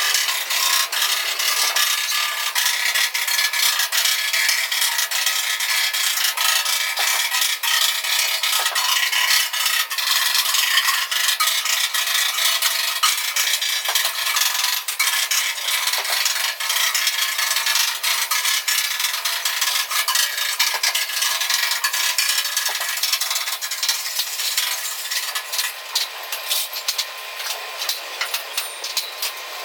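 Arc welding on steel truck-bed panels: a steady, dense crackle of rapid spatter. It thins out and drops a little in level over the last few seconds.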